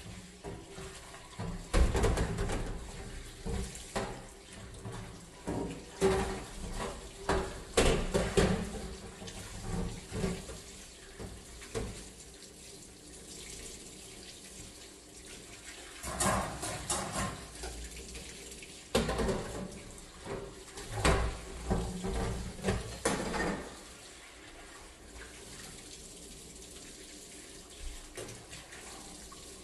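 Water running and splashing at a sink, mixed with irregular knocks and scrubbing strokes of cleaning things being handled and rinsed. The knocks and strokes are busiest over the first two thirds and then give way to a quieter steady wash of water.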